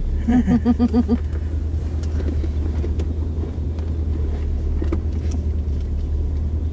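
Car engine idling, a deep steady low rumble heard from inside the cabin as the car rolls slowly forward.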